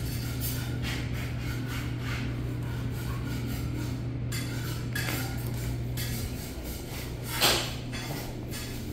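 A steady low hum with scattered light knocks and clatter, and one louder knock about seven and a half seconds in.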